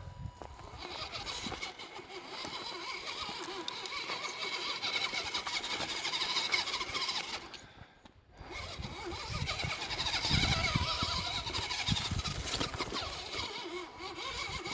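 Radio-controlled scale crawler truck's electric motor and gearbox whining as it climbs over rock. The whine drops out briefly about 8 seconds in, then picks up again.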